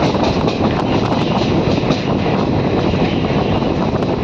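Indian Railways express train running along the track, heard from the open door of a moving coach: a steady, loud rumble of wheels on rails.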